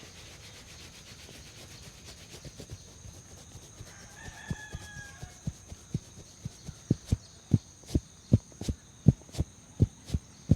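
Hands patting and tapping rhythmically on a person's head in a head massage, soft at first and then firmer, about three dull strikes a second. A brief pitched call sounds in the background in the middle.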